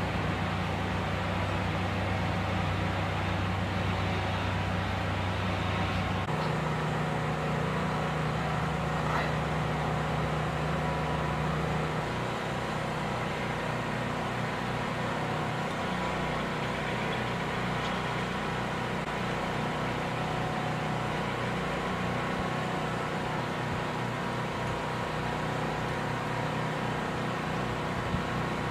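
A machine engine running steadily, with a low hum whose pitch changes abruptly twice in the first half.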